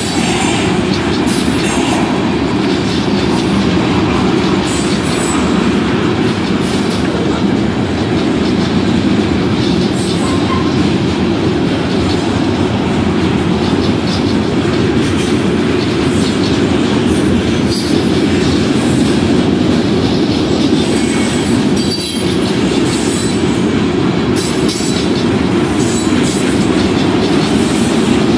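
Freight train of tank cars and covered hopper cars rolling past at a steady pace: a continuous rumble of steel wheels on the rails, with scattered short high clicks.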